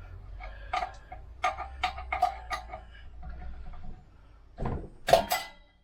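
Metal clinks and knocks from hand tools and bolts on a furnace blower housing: irregular ringing taps a few times a second, then two louder bangs near the end.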